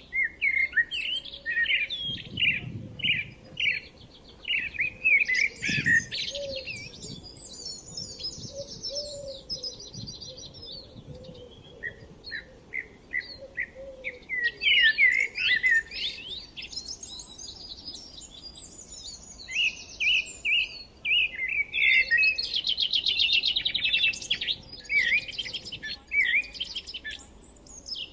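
Several forest songbirds chirping and singing together: quick repeated chirps overlapped with fast high trills, over a faint steady background.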